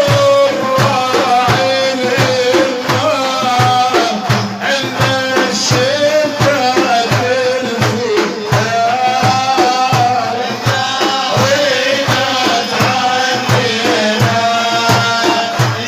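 Middle Eastern folk song: a male munshid singing a qasida in long, ornamented, wavering notes over a steady drum beat and melodic accompaniment.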